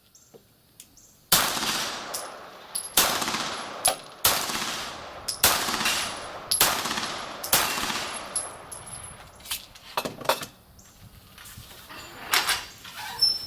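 Beretta 92G Elite Compact 9 mm pistol fired rapidly: six loud shots about a second apart, each with a long echoing tail. A few fainter sharp cracks follow near the end.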